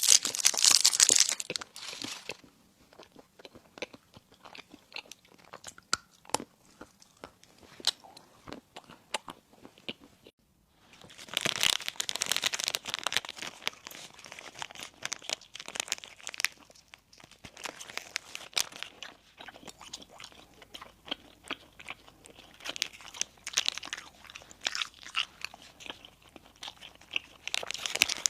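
Close-miked biting and chewing of crispy baked bread and fillings: loud clusters of crunches near the start, again about eleven seconds in and near the end, with quieter chewing between and a brief silent gap about ten seconds in.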